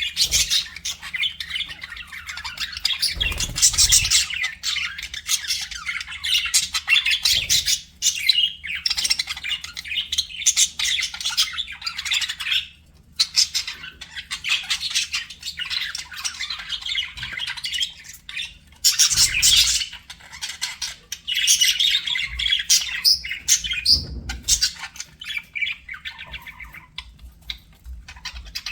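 Budgerigars (budgies) chattering and warbling, a dense run of rapid chirps and squawks with a few brief pauses.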